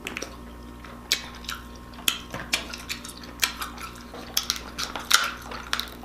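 Hard crab shell clicking and cracking as it is broken and picked apart by hand: a run of sharp, irregular clicks.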